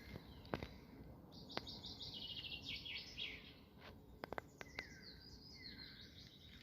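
Small songbirds singing at dawn: a fast, high trilled phrase about a second in, with shorter falling whistled notes around it. A few sharp clicks, a pair of them near the middle, sound over the quiet background.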